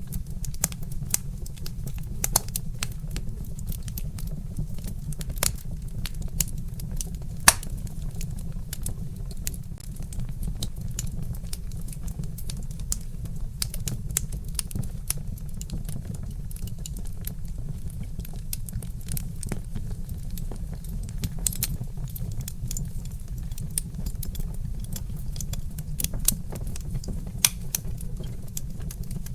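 Wood fire crackling: logs popping and snapping at irregular moments, one sharper pop about seven and a half seconds in, over a low steady rumble.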